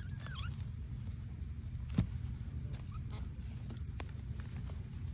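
Evening insect chorus: a steady high-pitched trill of crickets with a second insect chirping about twice a second. A sharp click about two seconds in.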